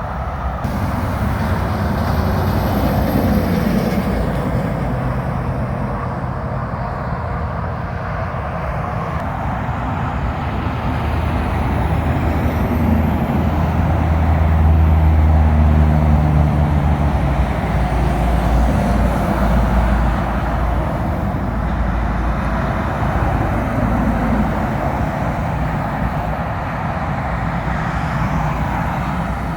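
Semi trucks and traffic passing on a wet road, with a steady hiss of tyres on the wet surface. A heavy diesel truck engine drones loudest about fifteen seconds in, then fades.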